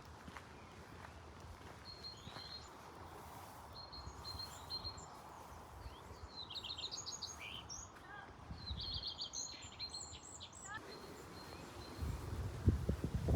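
Small songbirds chirping and singing: repeated short, high trills and chirps. Low thumps come near the end.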